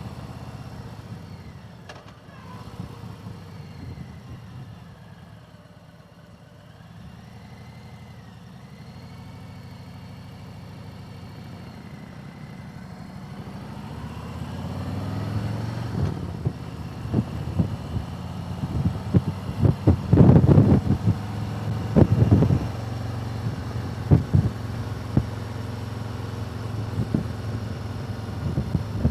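Vehicle engine running on the road: a low, steady drone at first, growing louder from about halfway. In the second half, repeated sharp bursts of noise sit over it.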